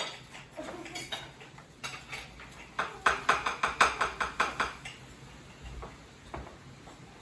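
Metal utensils clinking against plates and dishes as food is served, with a quick run of sharp taps, about five a second, between three and five seconds in.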